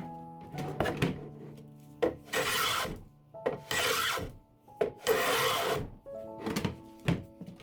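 A chest-of-drawers drawer sliding on its rails three times, each a rasping slide of about two-thirds of a second, over background music.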